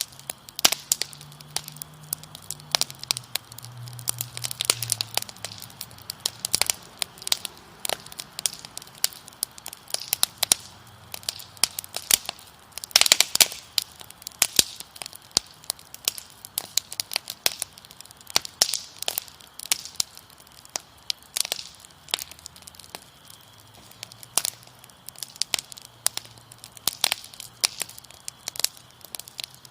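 Wood fire crackling, with dense, irregular sharp pops and snaps and a cluster of louder pops about 13 seconds in.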